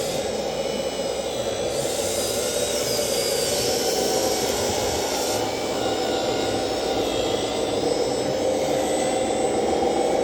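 A steady mechanical drone, with faint high whines wavering in pitch over it.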